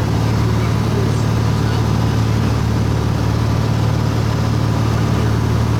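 A plane's engine droning at a steady, constant pitch, with the rush of air over it.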